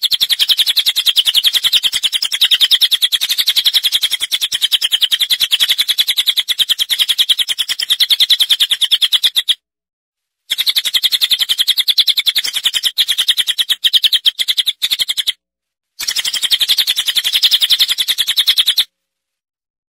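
Recorded bird song: a fast, even run of high chirps, steady in pitch, in three stretches that each stop abruptly, with short pauses about halfway through and near the end.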